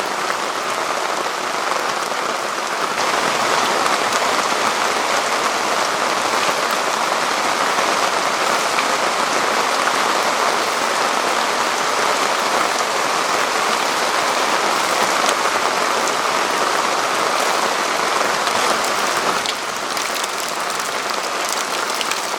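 Heavy downpour of rain, a steady dense hiss of drops pattering on a tarp. It swells a little about three seconds in and eases slightly near the end.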